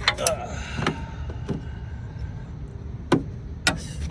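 Scattered clinks and knocks of a spark plug socket and tools against the engine as a spark plug is threaded in by hand, about seven separate knocks with the sharpest near the end.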